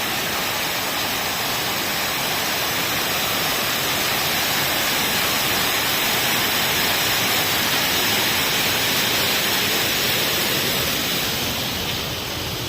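A steady, loud rushing hiss without pitch or rhythm, swelling slightly through the middle and easing near the end.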